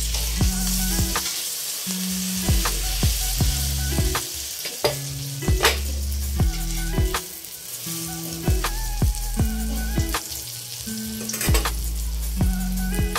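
Eggplant omelettes sizzling as they fry in oil in a wok, with a metal spatula scraping and knocking against the pan now and then. Background music with a bass line and a beat plays along.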